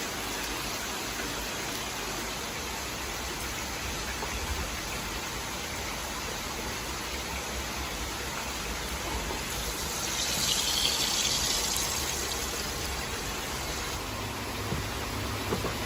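Steady sizzling hiss of beef frying in a hot pan, flaring louder and brighter for about two seconds roughly ten seconds in.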